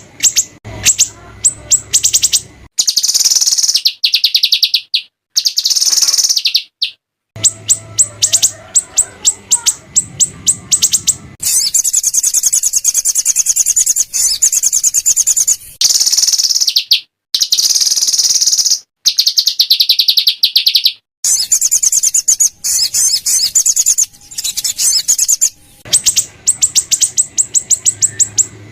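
Small songbirds giving harsh, rapid 'shooting' calls: fast runs of sharp, high-pitched repeated notes and dense trills, broken by several abrupt cuts between recordings.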